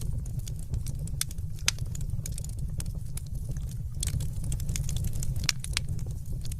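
Wood fire crackling in a fireplace: a steady low rumble of burning with sharp pops and snaps at irregular intervals.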